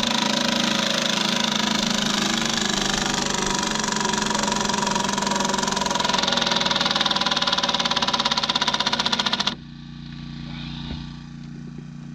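Cordless impact driving: rapid hammering as 7-inch log screws are driven into timber, cutting off suddenly about three-quarters of the way through. A steady low hum carries on underneath.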